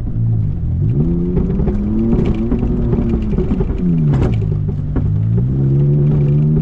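Off-road vehicle engine revving up about a second in, holding higher revs, then easing back down near the end while driving over rough ground, with scattered knocks and rattles.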